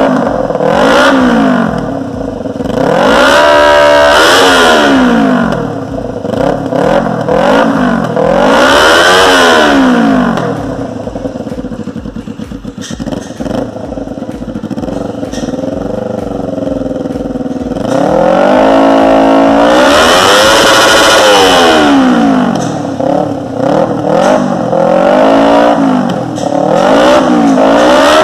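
Kawasaki Ninja 250 parallel-twin engine through an aftermarket full sports exhaust, blipped repeatedly so the revs rise and fall back to idle. Partway through it idles with an even pulsing beat for several seconds, then is held at high revs for a few seconds before more quick blips.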